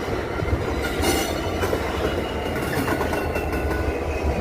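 A train passing close by at speed: a steady heavy rumble with wheels clattering over the rails, scattered clicks, and thin high ringing tones from the wheels on the track.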